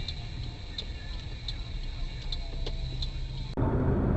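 Car interior with low engine and road rumble and evenly spaced ticks about once every 0.7 s, like a turn-signal indicator. About three and a half seconds in, it cuts abruptly to louder road noise.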